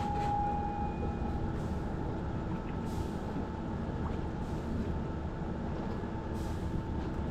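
Steady low mechanical rumble with a faint constant hum, and a brief higher steady tone in the first second.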